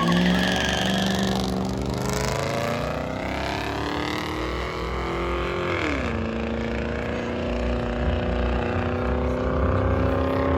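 A car engine revving up in one long rising pull, its pitch dropping sharply about six seconds in and then holding steady. A tire squeal fades out in the first second or so.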